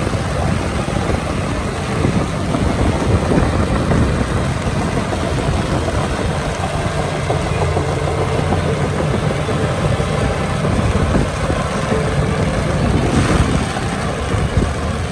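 Heavy diesel engine of an earthmoving machine running steadily.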